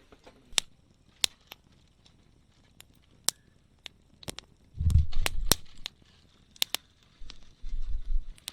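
Wood burning in a small fire pit, crackling with irregular sharp pops. Low rumbles come twice, about halfway through and again near the end.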